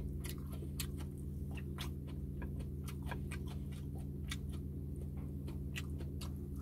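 Close-up eating sounds: chewing with quick, irregular wet mouth clicks and lip smacks over a steady low hum.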